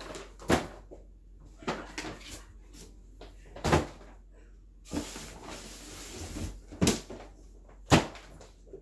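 Cardboard firework cake boxes being handled and set down: a few sharp knocks, the loudest near the end, with scraping and rustling of cardboard in between.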